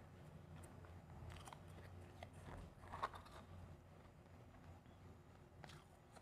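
Quiet close-miked chewing of refrozen powdery ice: scattered soft crunches and crackles, the sharpest about three seconds in.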